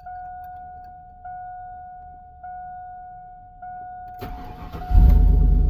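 A dashboard warning chime sounds about once every 1.2 seconds. About four seconds in, the starter cranks for under a second, and then the Silverado's 5.3-litre V8 catches and runs loudly on a cold start.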